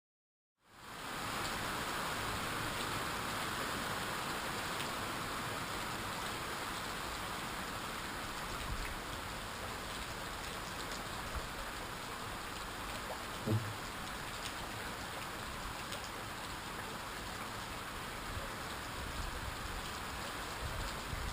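Steady heavy rain falling, an even hiss with faint scattered drop ticks, and one brief soft thump about two-thirds of the way through.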